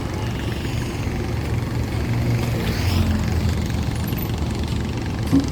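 Steady low rumble of engines running, with a brief knock near the end.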